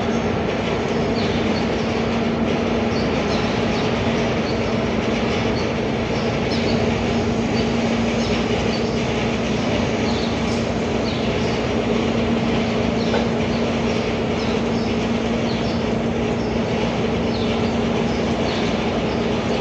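A machine running steadily, a loud continuous noise with a constant low hum. Short high chirps are scattered throughout.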